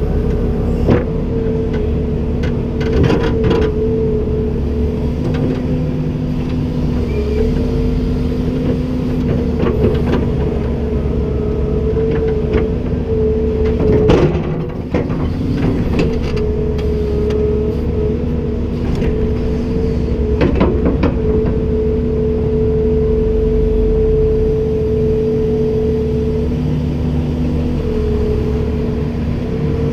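Komatsu PC290-10 excavator's diesel engine running steadily with a constant droning hum. Scattered metallic knocks and clanks come through it, with a louder burst of them about fourteen seconds in.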